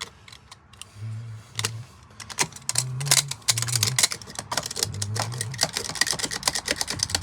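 Blade scraping and picking loose rotted wood out of a window's brick mold: quick, irregular clicks and scrapes that grow denser from about two and a half seconds in. Short low hums sound in between.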